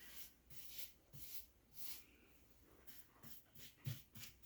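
Faint, repeated swishes of a paintbrush stroking acrylic paint onto a door frame, with a light knock near the end.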